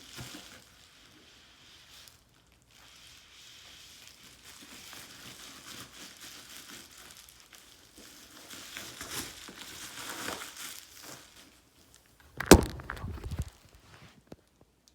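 Plastic wrapping crinkling and rustling as a new motorcycle exhaust is unwrapped and handled. About twelve and a half seconds in there is a loud sharp knock with a brief ringing tail.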